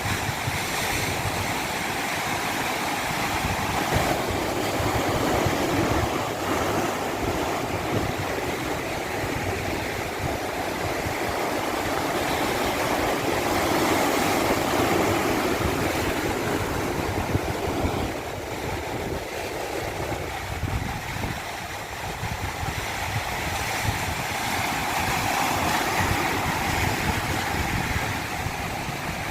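Continuous rushing water, swelling and easing slowly about every ten seconds.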